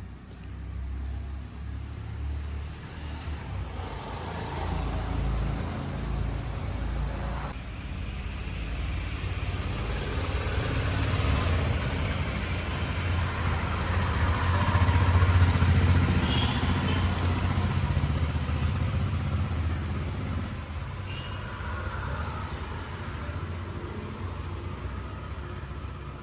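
A motor vehicle engine running, growing louder toward the middle and then slowly fading.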